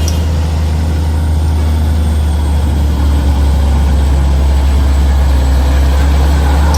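Heavy truck engine running with a steady low drone, a little louder from about halfway through.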